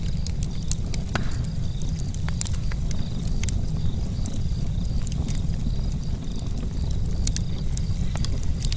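Charcoal campfire crackling, with scattered sharp pops over a steady low rumble.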